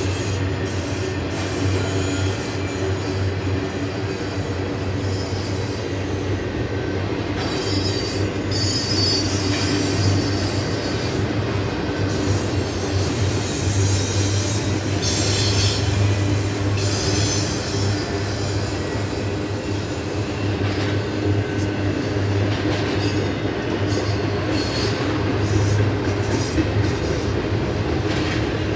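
Slow double-stack intermodal freight train rolling past, its steel wheels giving a steady low rumble on the rails, with patches of high-pitched wheel squeal that are strongest about halfway through.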